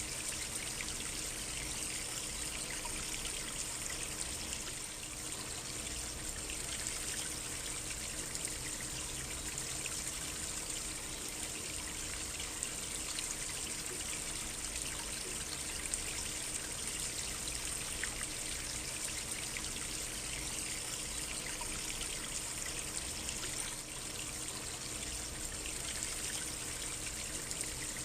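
Small stream trickling and babbling steadily over rocks.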